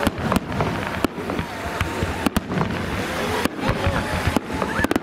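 Aerial fireworks going off: a series of sharp bangs, roughly one a second, over a steady background of crackle and noise.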